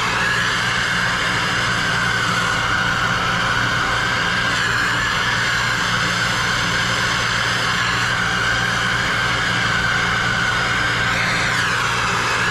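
Plumber's soldering torch flame burning with a steady hiss while a copper fitting is heated for soldering.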